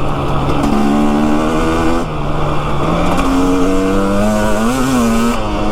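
Motorcycle engine running while riding, its pitch holding steady and then stepping up or down several times as the throttle and gears change, with a brief wavering near the end. Wind noise on the microphone runs underneath.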